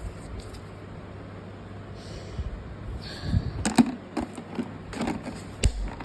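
Mothballs and their packaging being handled: a couple of soft rustles and scrapes, then from about halfway through a run of sharp, irregular clicks and taps.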